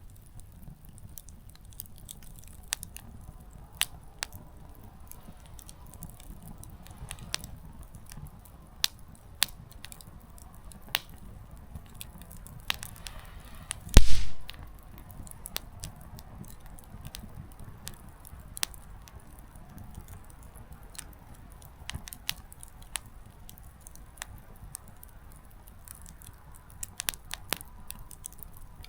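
Small wood campfire crackling, the burning firewood giving off irregular sharp pops and snaps over a low steady rumble, with one much louder pop about halfway through.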